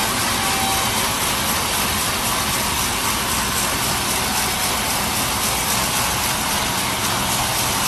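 Sawmill machinery running steadily: a loud, even mechanical noise with no breaks or strokes.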